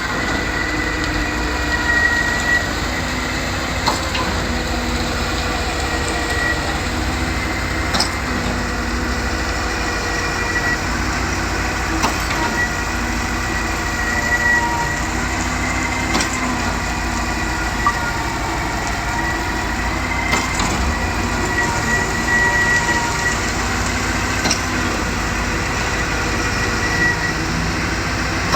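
Concrete pump running steadily, with a sharp knock about every four seconds as its pumping cylinders change stroke.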